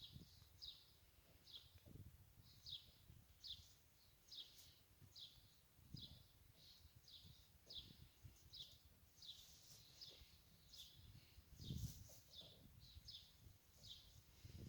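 A small songbird chirping faintly, one short high note repeated over and over, roughly every half to three-quarters of a second. Soft low thuds come and go underneath, loudest near the end.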